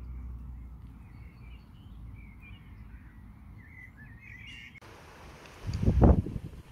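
A songbird singing short warbling phrases over a low wind rumble. About five seconds in this gives way to a steady windy hiss, and near the end a gust buffets the microphone, the loudest sound.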